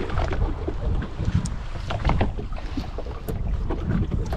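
Wind buffeting the microphone on a small open fishing boat, a steady low rumble with irregular splashes and light knocks throughout.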